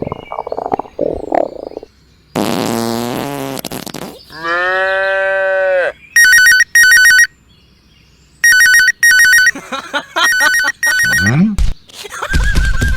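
A string of cartoon frog sound effects. First a buzzing croak, then a long held pitched call, then several short, high trilling bursts in quick pairs that ring like a phone, and a rising whistle near the end.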